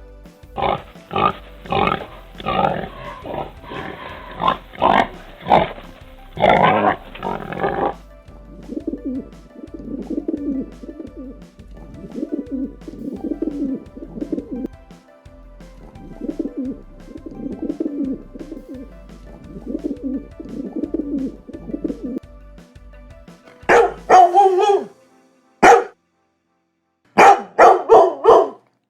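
Animal calls in several separate clips. The first stretch is dense. The middle holds a regular run of repeated low calls, about one every second and a half. Near the end come a few sharp, loud calls with silent gaps between them.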